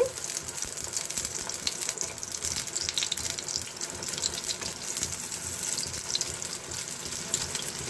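Beaten egg frying in hot oil in a nonstick pan: a steady sizzle with dense fine crackles as the omelette is rolled over.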